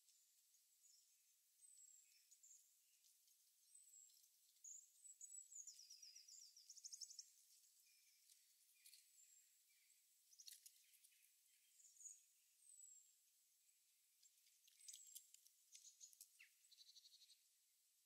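Faint songbirds chirping: scattered high-pitched calls and short twitters, with a rapid trill about six seconds in and another near the end.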